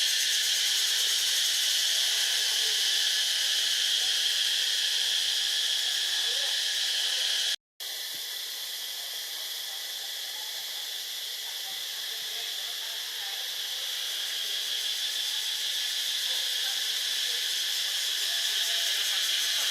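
A steady, high-pitched insect chorus, cut off by a brief silence about eight seconds in and then going on a little quieter.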